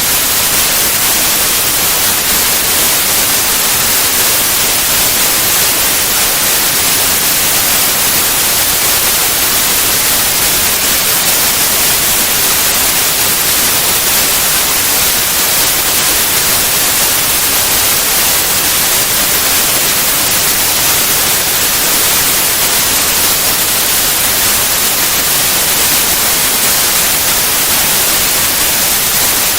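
Steady white noise: an even, unchanging hiss with most energy in the highs, made for masking.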